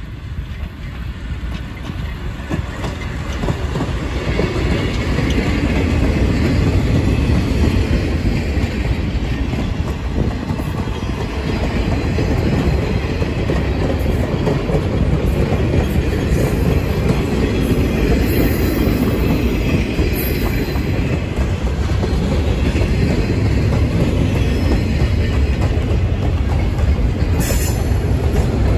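Freight train rolling past caboose-first, shoved by diesel locomotives at the rear: steel wheels clattering on the rails. It grows louder over the first six seconds, then holds steady as the tank cars go by.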